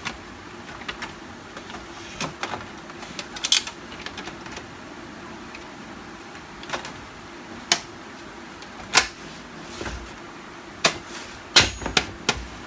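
Irregular sharp plastic clicks and knocks as the side cover of a Canon LBP 6030 laser printer is handled and fitted into place, the loudest few near the end.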